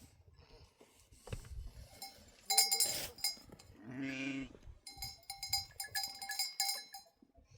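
Livestock bells clinking as the herd moves, in two stretches, with a single bleat from a sheep or goat-type animal about four seconds in.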